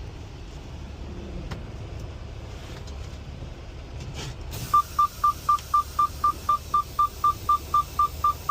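Semi-truck idling as a low steady rumble. About two-thirds of the way in, a loud, high electronic warning chime starts beeping rapidly and evenly, about four beeps a second.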